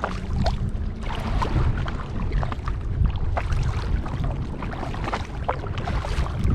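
Kayak paddle strokes in the water: irregular small splashes and drips over a steady low rumble of wind on the microphone.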